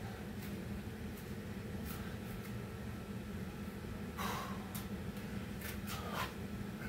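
Hard, heavy breathing from exertion during burpees, with two louder gusty breaths about four and six seconds in, over a steady low hum.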